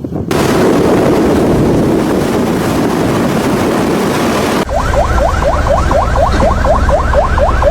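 Storm wind blowing hard against the microphone as a loud, even rush. After a sudden cut about four and a half seconds in, a low engine rumble runs under a fast, repeating rising electronic chirp, about four to five a second.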